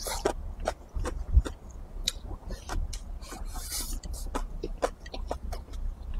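A person chewing a mouthful of food close to the microphone: a rapid, irregular run of wet mouth clicks and lip smacks, with a brief hiss of breath about halfway.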